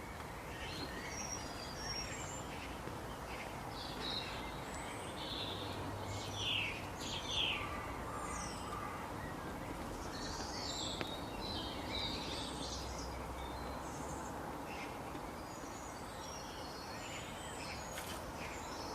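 Wild birds chirping and calling, many short overlapping calls with the busiest stretch in the middle, over a steady background hiss.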